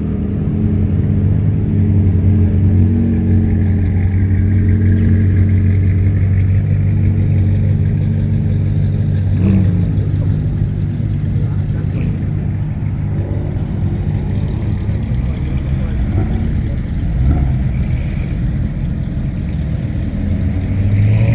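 Car engine idling with a steady low hum, less even in the last few seconds.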